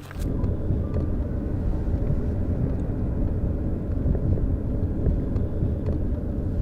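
Steady low rumble of a car on the move, road and engine noise, starting abruptly.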